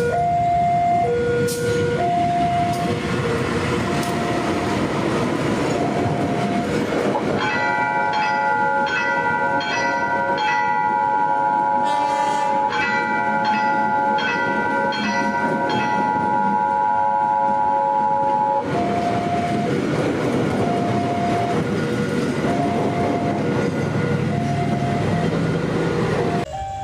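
A train passing at track side with a steady rumble and wheel noise. A locomotive horn sounds one long blast, from about 7 s in to about 18 s in, with a short break in the middle. A repeating two-note warning beep carries on throughout.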